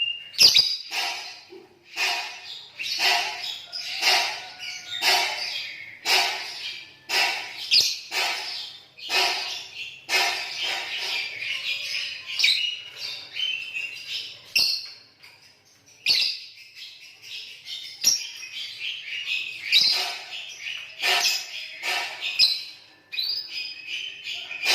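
Two green lovebirds calling against each other with shrill, rapid chirps in short bursts about once a second, with a brief pause past the middle.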